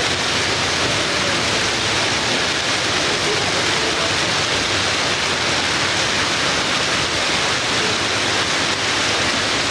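Steady rain falling, an even hiss with no separate drops or gusts standing out.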